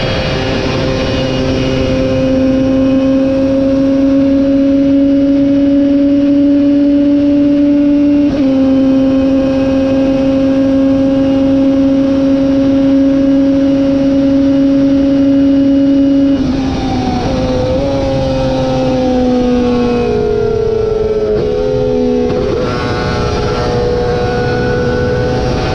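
Superbike race motorcycle engine held at high revs, its pitch creeping up, with a brief dip about eight seconds in at a gear change. About two-thirds of the way through the revs drop in a series of steps as the bike downshifts and slows, then near the end they climb again as it accelerates.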